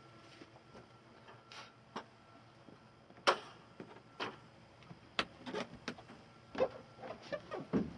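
Irregular knocks and clicks of hands-on carpentry work on wood, with the loudest knock about three seconds in.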